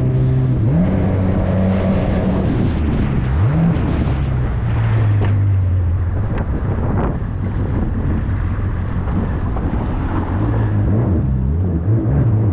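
Jet ski engine running under way, its pitch shifting with the throttle and rising sharply twice in the first few seconds, with wind buffeting the microphone.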